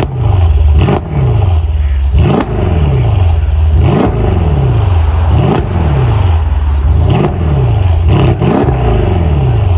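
Mercedes-AMG E63 S (W212) twin-turbo 5.5-litre V8 revved while parked: about eight sharp, loud blips, each rising quickly and falling back to a deep idle, some close together near the end.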